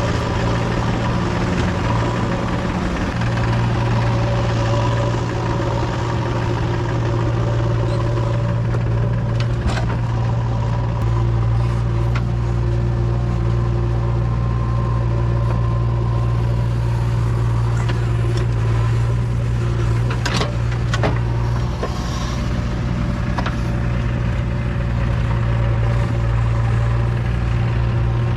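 Four-cylinder diesel engine of a JCB 3DX backhoe loader running steadily under work, with a deep, even hum. A few sharp knocks cut through it once about ten seconds in, and again two or three times around twenty seconds in.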